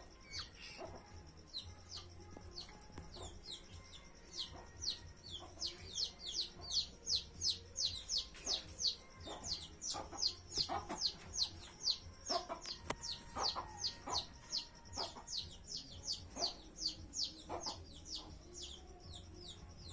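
Small birds chirping rapidly: a steady run of short, high, falling chirps, about three or four a second, loudest in the middle, with occasional lower, sharper calls mixed in.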